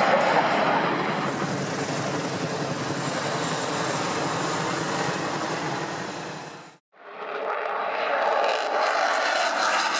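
Aircraft engine noise from planes flying a display, a dense steady roar. About seven seconds in it cuts out for an instant and comes back: two recordings joined.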